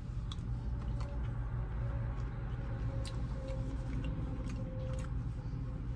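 Steady low background hum with a few faint scattered clicks and taps.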